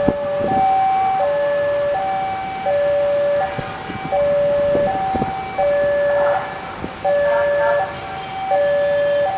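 Railway level crossing warning alarm sounding a two-tone chime, a higher and a lower tone alternating evenly, each held for under a second, with a few sharp knocks mixed in.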